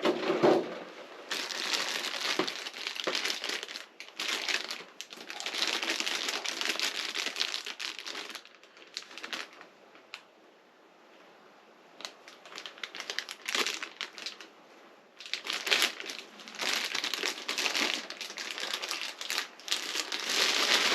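Figure packaging crinkling and rustling as it is handled and unwrapped, in bouts, with a quieter pause of a couple of seconds midway.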